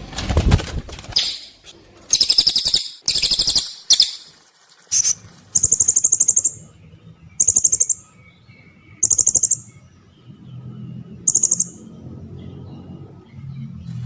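Masteran recording of cililin and blue-crowned hanging parrot (serindit) calls: a series of very high, shrill, rapidly pulsed trills about a second long each, repeated with short gaps. The trills grow shorter and sit lower in the second half, where a faint low hum also comes in.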